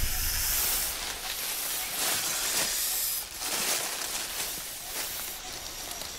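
A king cobra and the snake it has seized thrashing in dry leaf litter: hissing and rustling leaves that rise and fall several times, loudest in the first second.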